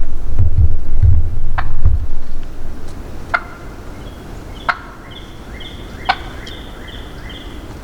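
Wild turkey calling: four sharp gobbles about a second and a half apart, then a run of short, evenly spaced high notes. Wind buffets the microphone in the first two seconds.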